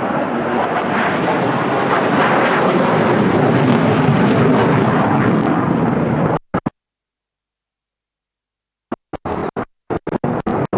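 Sukhoi fighter jet flying past, a loud, steady jet noise. About six seconds in the sound drops out completely for over two seconds, then comes back in broken, choppy fragments.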